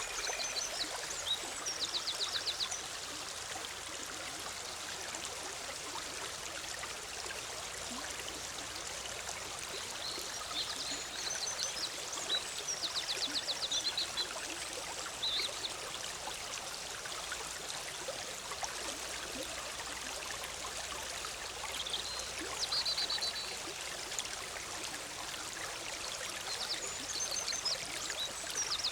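Forest stream babbling steadily, with a songbird singing short, rapid trills several times over the water.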